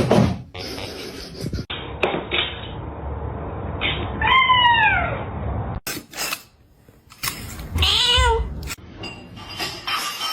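Cats meowing in short clips: one meow about four seconds in that falls in pitch, and a second, wavering meow about eight seconds in, with scattered knocks and handling noise between them.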